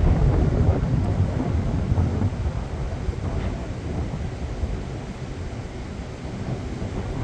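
Wind buffeting the microphone: a steady, noisy low rumble that eases a little partway through.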